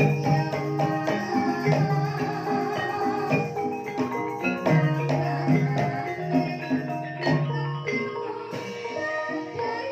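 Banyumasan gamelan ensemble playing a gending in the ebeg style: interlocking mallet-struck tuned notes over a repeating low figure, with drum strokes, at a steady tempo.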